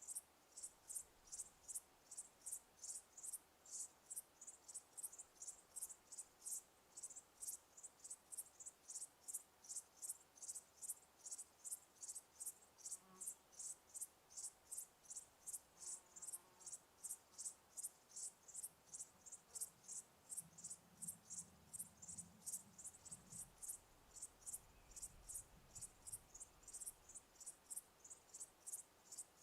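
A cricket chirping in an even, unbroken rhythm of short high-pitched chirps, about two or three a second. A faint low rumble sits underneath for a few seconds past the middle.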